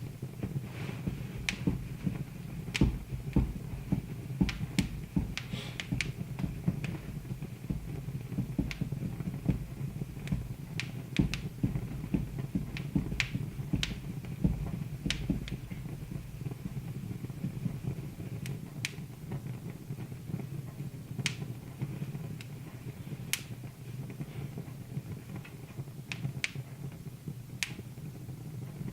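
Wood fire crackling in a fireplace: irregular sharp pops and snaps, a few every second, over a steady low rumble.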